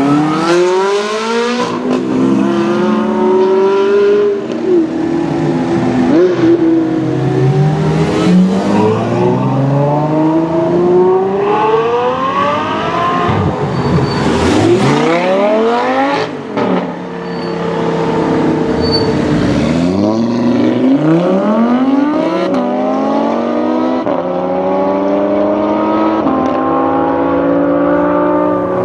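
High-performance car engine accelerating hard through the gears: its pitch climbs, drops at each upshift and climbs again, over several runs as cars pass by.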